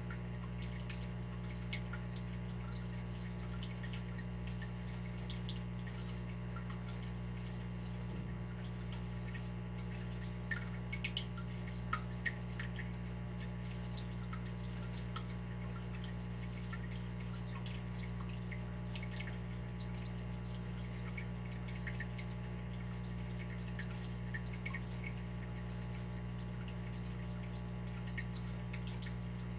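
Water dripping and trickling steadily, with many small irregular drips and a brief run of louder drops about ten to twelve seconds in, over a constant low hum.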